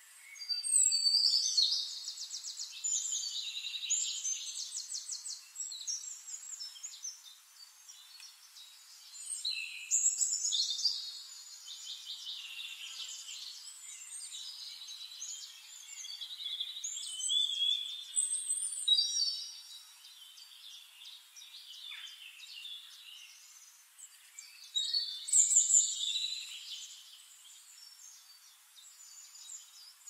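Songbirds singing in rapid, trilling, high-pitched phrases. The song comes in several loud bursts, roughly every eight seconds, with quieter chirping between.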